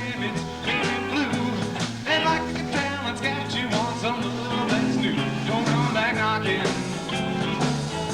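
Live rock band playing: electric guitars over a bass line and steady drums.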